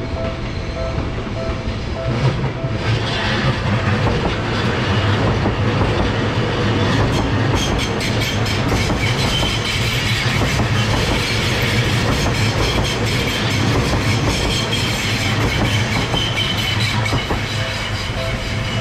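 A train passes over a level crossing at close range: a steady rumble of wheels on rail, with a quick run of clickety-clack from the wheels crossing rail joints at its loudest in the middle. The crossing's electronic warning bell rings its repeated two-tone ding at the start and again near the end.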